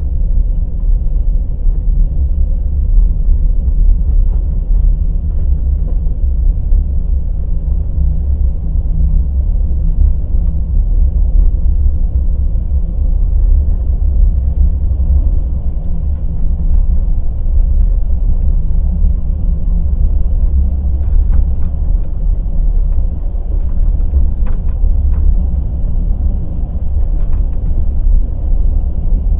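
Steady low rumble of a passenger train on the move, with no distinct rail-joint clicks standing out.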